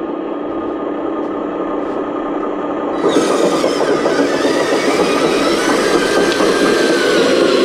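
Radio-controlled model excavator running: a steady mechanical whine of its motors, getting louder and harsher about three seconds in as it works.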